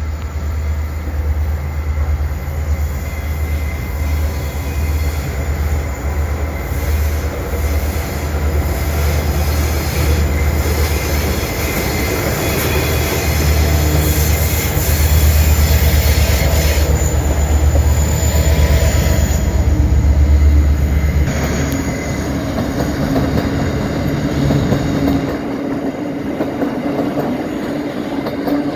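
Two Aurizon 2300 class diesel-electric locomotives passing at speed with a deep engine drone that peaks in loudness over the middle of the passage. About 22 seconds in the engine sound drops away, leaving the empty coal wagons rolling by with wheel clatter and high-pitched wheel squeal.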